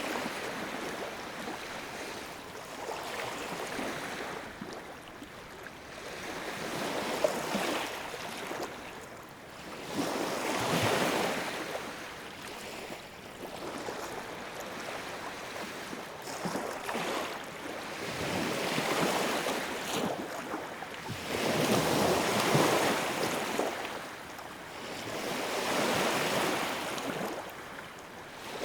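Wood fire burning in a fireplace: a steady rush of flames with fine crackling, swelling and fading every few seconds.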